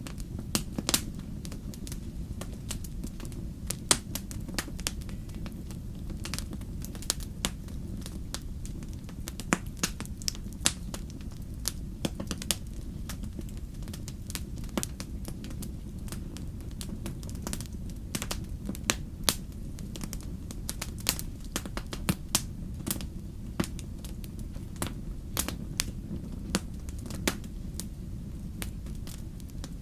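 Wood bonfire burning: a steady low rumble of flames with frequent, irregular sharp crackles and pops.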